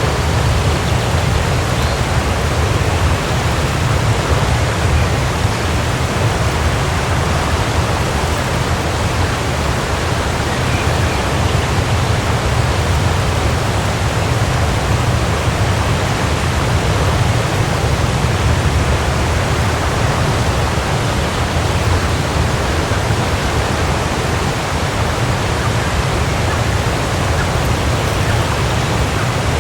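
Waterfall rushing steadily: a constant wash of falling water, heaviest in the low rumble, without a break or change.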